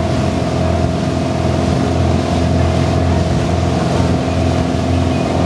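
Motorboat engine running steadily while the boat is underway, over a constant rush of wind and water.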